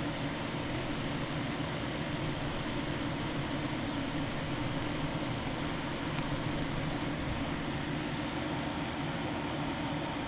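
Steady mechanical drone with a low hum and hiss, unchanging throughout, with a few faint small ticks.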